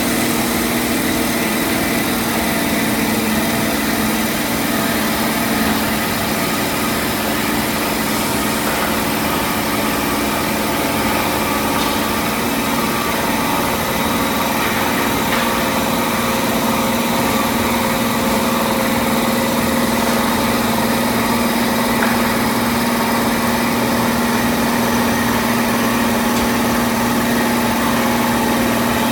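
CNC lathe running with a steady machine hum: a held low tone over a hiss, with a few faint clicks.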